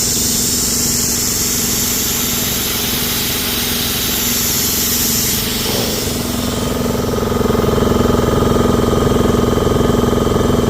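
A small engine running steadily under the high hiss of a backyard snowmaking gun spraying water and air. About halfway through, the hiss fades and the engine becomes louder.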